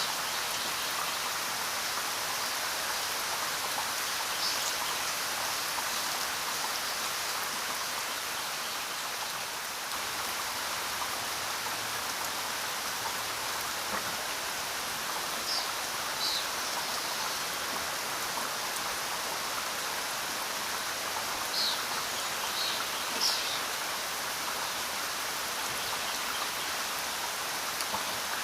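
Steady rainfall, an even hiss with no let-up. A handful of brief high-pitched chirps or drips stand out above it, mostly in the second half.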